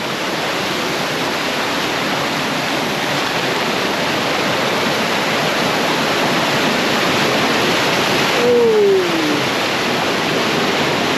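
Fast river rapids and falls rushing loudly and steadily, a dense unbroken sound of white water.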